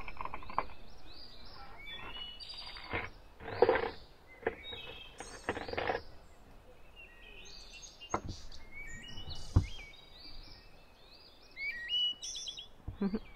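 Small songbirds chirping and twittering, with a few sharp knocks and clatters of objects being handled; the loudest knocks come about four seconds in and near ten seconds.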